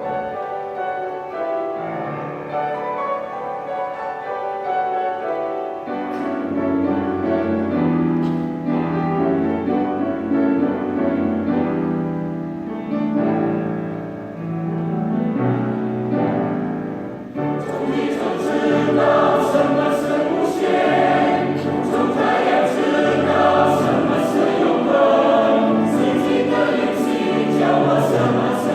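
A choir singing a slow choral piece. About seventeen seconds in, the singing grows louder and fuller.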